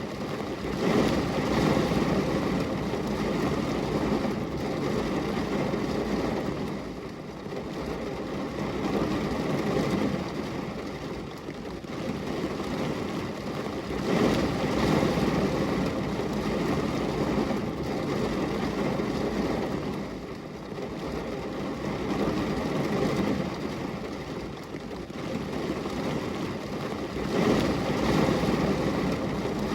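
Rain falling on a glass window: a steady, rumbling hiss that swells and eases every few seconds.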